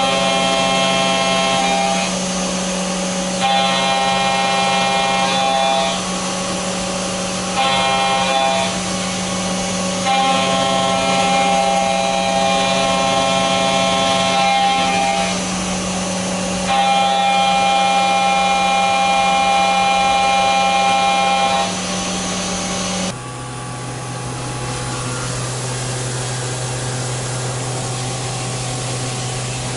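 Machine tool cutting a round metal bar: a steady motor hum under five separate cutting passes of a few seconds each, each with a ringing, whining squeal from the tool on the metal. About 23 seconds in the cutting stops and the hum drops to a lower pitch.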